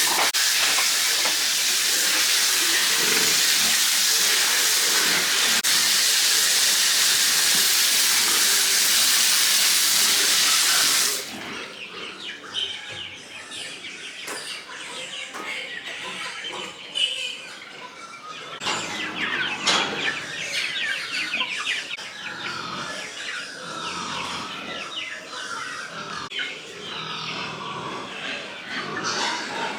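Water running in a steady loud rush for about eleven seconds, which cuts off suddenly. After that come quieter outdoor sounds with many short, high chirps.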